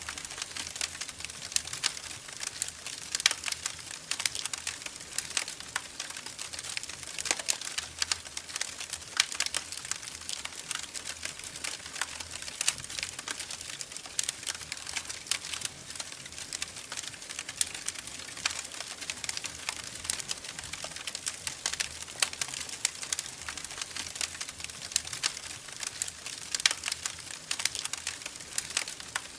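Wood fire crackling in a fireplace: a steady hiss with dense, irregular sharp pops and snaps.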